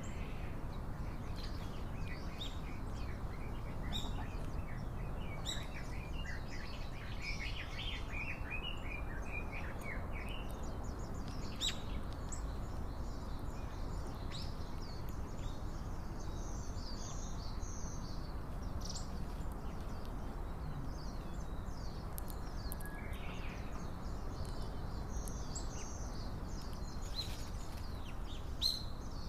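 Small wild birds chirping, many short high calls, some in quick runs, over a steady low background rumble.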